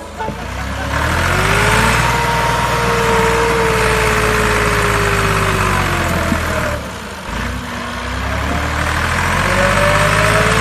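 A motor running with a steady low hum and a whine that rises and falls in pitch, dipping about seven seconds in and building again after.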